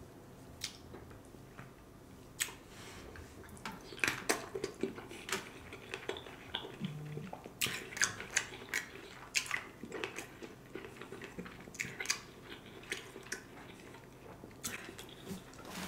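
Close-miked chewing of a sausage dipped in Alfredo sauce, with irregular wet mouth smacks and clicks throughout.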